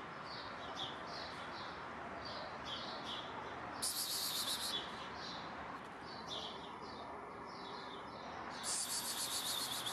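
Small songbirds chirping in repeated short falling notes, with two loud rapid trills, one about four seconds in and one near the end, over steady outdoor background noise.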